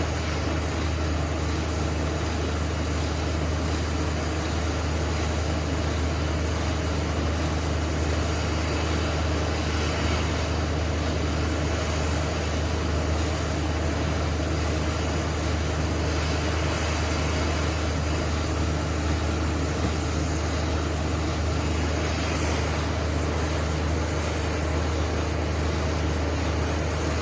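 Gas torch flame running steadily, a constant hiss over a low rumble, heating the metal around a broken bolt toward glowing red to loosen it.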